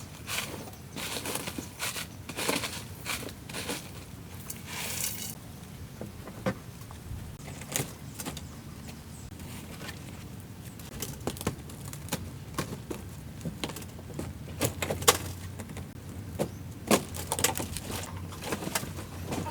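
Workshop work sounds: brushing or scraping for about the first five seconds, then scattered sharp clicks and knocks of parts and tools being handled, over a low steady hum.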